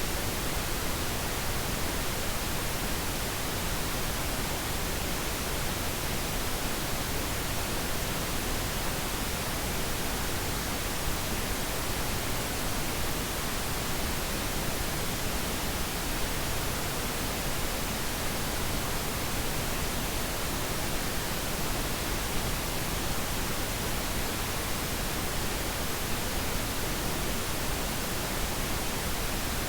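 Steady synthetic pink noise: an even, unchanging hiss spread across all pitches, with no tones or breaks.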